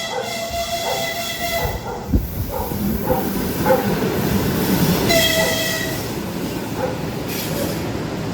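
A passenger train passing close by: a steady rumble and hiss of the rolling cars, with high-pitched tones near the start and again about five seconds in.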